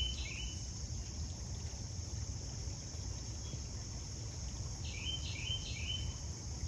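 Steady high-pitched chorus of insects, with a bird singing a short phrase of several quick notes at the start and again about five seconds in, over a low rumble.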